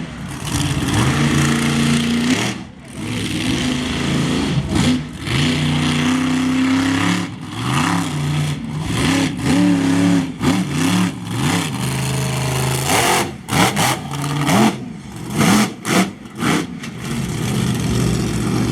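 Monster truck engine revving hard in repeated throttle blips, its pitch rising and falling again and again, the revs turning quicker and choppier in the last few seconds.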